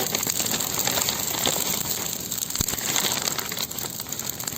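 Large bonfire of spruce branches crackling, with many small pops throughout.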